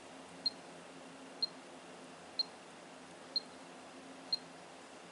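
Short high electronic beep repeating evenly about once a second from a moisture meter pressed to white pine siding while it takes a reading, over a faint steady hum.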